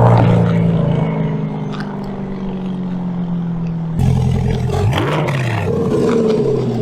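C8 Corvette V8 running through a Fabspeed aftermarket exhaust with a deep tone, mostly steady; about 4 s in the sound changes abruptly and the engine is blipped once, the pitch rising and falling quickly.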